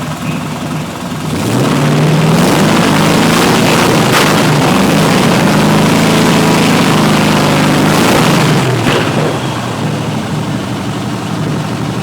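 Truck engine running on its first start after sitting unused for ten years: idling, then revved up about a second in and held at higher revs for several seconds before dropping back to idle near the end.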